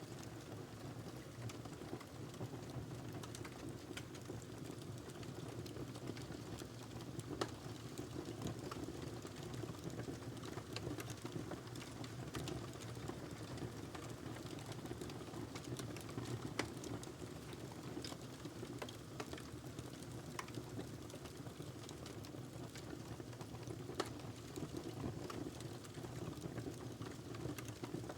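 Wood fire crackling in a fireplace: a steady low hiss of burning with scattered snaps and pops throughout, and a few sharper, louder pops.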